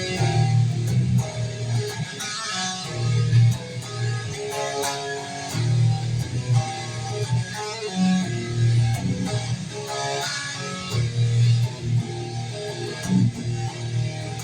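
Guitar playing an instrumental passage: strummed chords and picked notes over recurring low bass notes.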